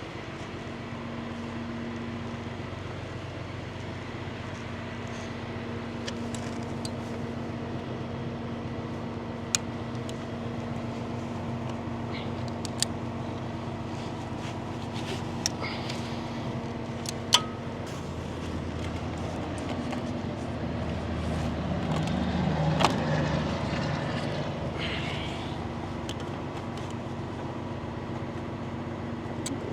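Tow truck engine idling steadily, with scattered sharp metal clicks and clanks. About two-thirds of the way through, a passing vehicle swells up and fades.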